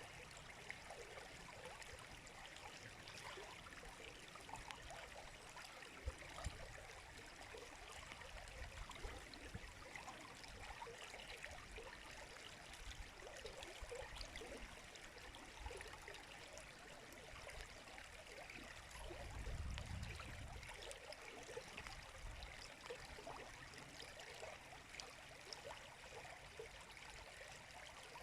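River water flowing and babbling steadily, with many small splashes and gurgles. A low rumble swells briefly about twenty seconds in.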